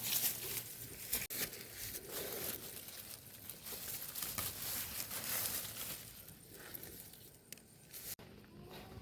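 Irregular rustling and crinkling, like something being handled, cutting off abruptly about eight seconds in.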